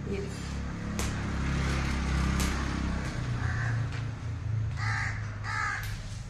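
A bird calling three short times around the middle and near the end, over a steady low hum, with a few sharp clicks.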